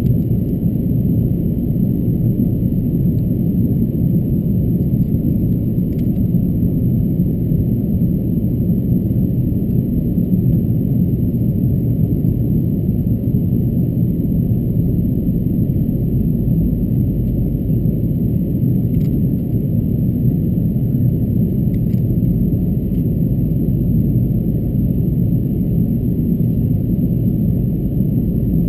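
Steady low rumble of an Airbus A330-223 airliner in flight, its engines and the airflow heard from inside the cabin.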